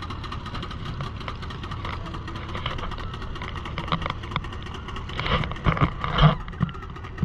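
Motorboat engine running steadily, with a few brief louder sounds near the end.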